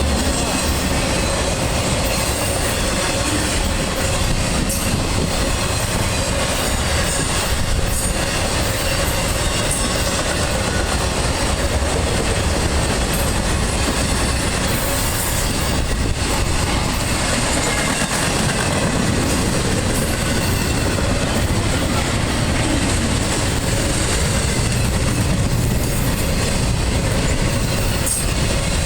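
Freight train of double-stack container cars rolling past steadily, with steel wheels clacking over the rail joints and a faint wheel squeal.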